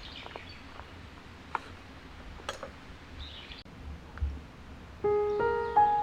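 A few faint scattered clicks and knocks, then background piano music begins about five seconds in with a melody of held notes.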